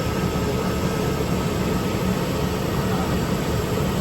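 2005 Chevrolet Express 3500's 4.8-litre V8 idling steadily.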